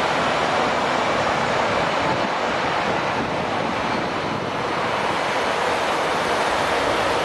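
Steady, loud roar of a Boeing 747-400D's jet engines, an even rushing noise with no distinct whine or breaks.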